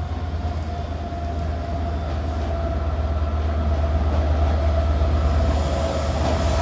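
Class 67 diesel locomotive's two-stroke V12 engine running: a steady low drone with a faint steady whine above it, growing gradually louder.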